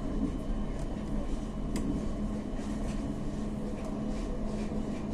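Inside a push-pull passenger train carriage: a steady low rumble with a constant hum and a few faint clicks.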